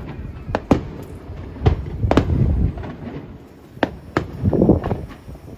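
Fireworks shells bursting overhead: a series of sharp bangs at irregular intervals, the loudest about two seconds in and another cluster about four seconds in.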